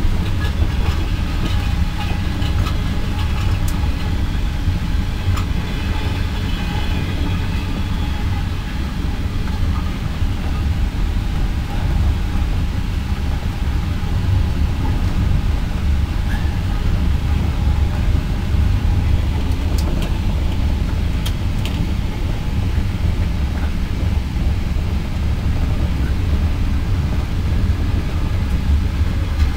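Steady low rumble of the Indian Pacific passenger train running along the track, heard from inside the carriage.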